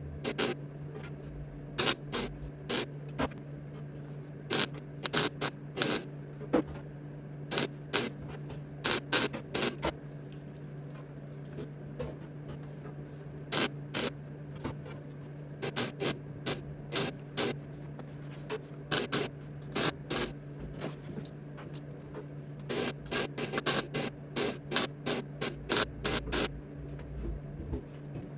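MIG welder laying short tack welds on sheet-metal body panels: dozens of brief crackling hisses in irregular clusters, over a steady low hum.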